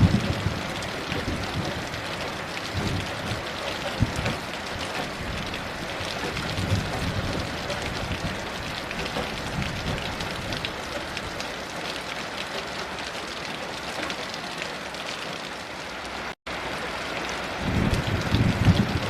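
Steady heavy rain falling, with low rumbles of distant thunder at the start and again, strongest, near the end. The sound breaks off completely for a split second about sixteen seconds in.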